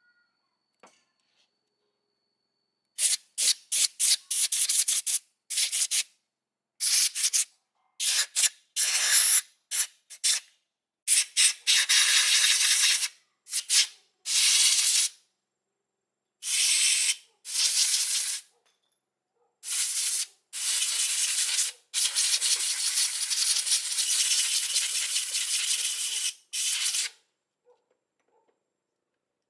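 Abrasive rubbing on a surface in repeated bursts, from short strokes to a run of several seconds, with gaps of silence between them.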